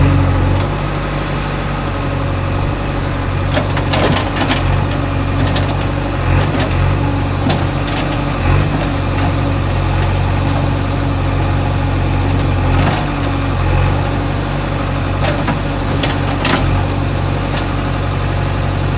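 Heavy diesel engine idling steadily. A few short knocks or clanks sound now and then over it.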